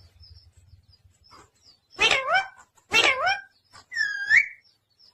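Pet parrot calling: two short, harsh, pitched calls about a second apart, then a rising whistle.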